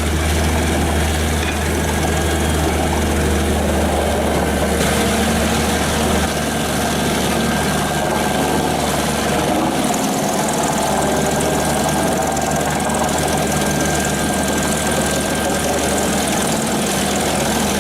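Heavy diesel engine of a Pezzolato PTH 1200/660 M tracked industrial wood chipper, a Caterpillar C9, running steadily with a thin steady whine on top. Its deep low hum drops noticeably about six seconds in.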